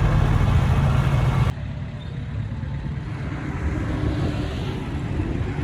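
Heavy construction machine's diesel engine running loud; about a second and a half in, the sound drops abruptly to a quieter engine running.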